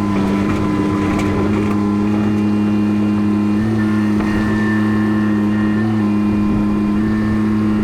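Mini excavator's diesel engine running steadily at a constant speed, its pitch stepping up slightly about three and a half seconds in.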